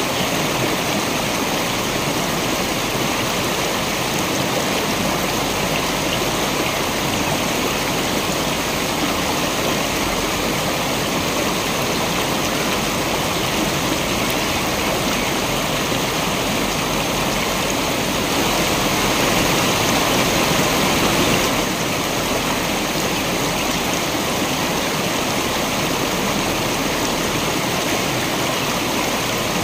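Waterfall running, a steady rush of falling water, with a slightly louder stretch about two-thirds of the way through that begins and ends abruptly.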